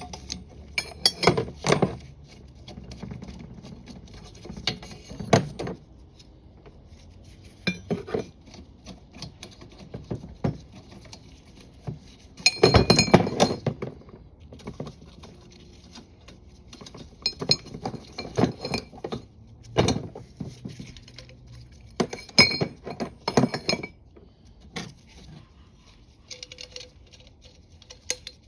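Stainless steel parts and clamps of a Water Ox upper unit clinking and clanking as it is taken apart. The sound comes in separate bursts of metal knocks with a brief ring, the loudest about halfway through.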